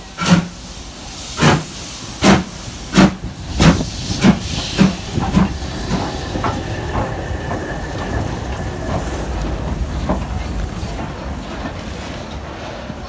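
Steam locomotive pulling away: loud exhaust chuffs, slow at first and quickening, that fade into a steady rumble and hiss after about six seconds.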